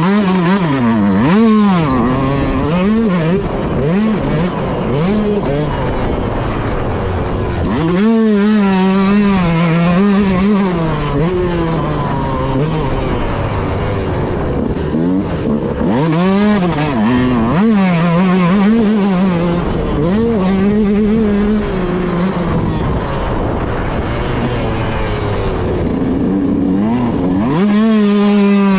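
Motocross bike's engine at race pace, heard close from a rider-mounted camera: revving up and down with the throttle and gearshifts, climbing sharply in pitch about eight, sixteen and twenty-seven seconds in.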